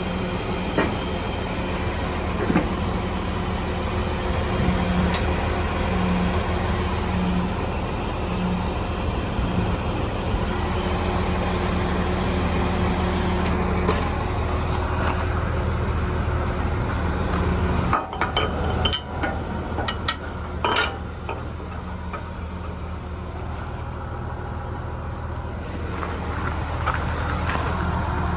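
Heavy diesel engine running steadily at idle, with several sharp metallic clanks and clinks clustered about 18 to 21 seconds in.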